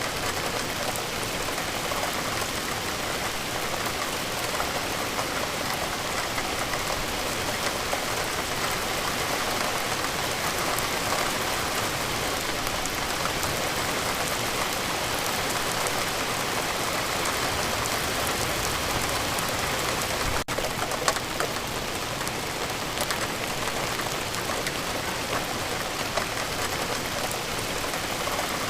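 Steady rain falling, many individual drops hitting a surface. About two-thirds of the way through the sound drops out for an instant, followed by a single sharper, louder hit.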